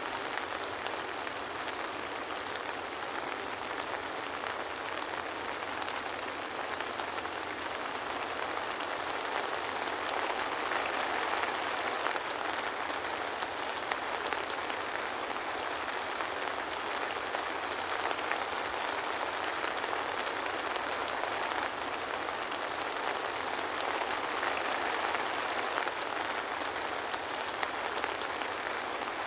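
Soft rain falling steadily and evenly, with no thunder.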